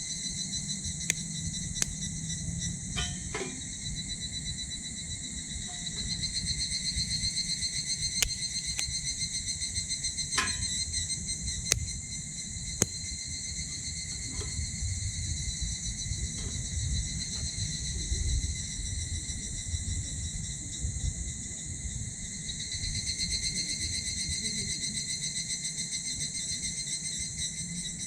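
A steady evening chorus of insects trilling high, with occasional sharp pops and crackles from a small wood fire burning in a titanium wood stove.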